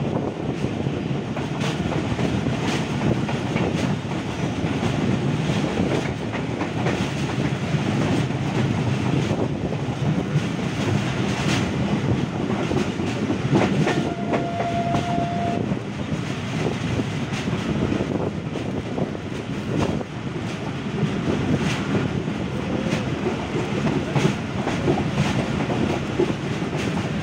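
Pakistan Railways Khyber Mail passenger coaches running at speed on the rails, heard from an open coach doorway: a steady rumble of wheels and wind with sharp clicks as the wheels pass over rail joints. A brief steady high tone sounds about halfway through.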